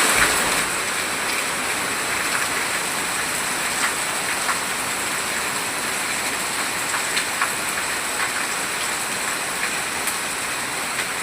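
Steady rain falling, a dense even hiss with a few sharper drop ticks here and there.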